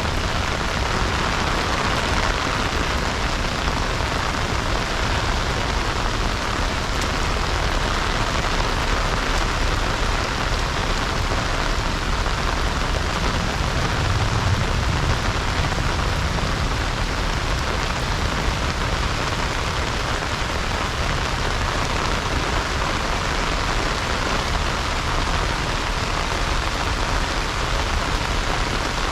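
Heavy rain falling steadily, a dense, even hiss of drops on the ground.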